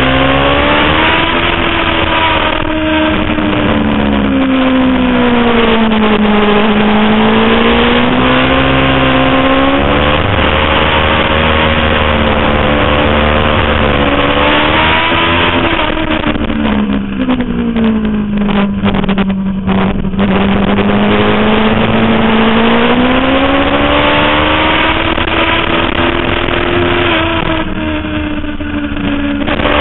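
2005 Suzuki GSX-R 750 inline-four engine running hard at high revs, its note rising and falling as the bike accelerates and slows. About halfway through, the note drops and stutters as the throttle closes and the bike downshifts, then it climbs again.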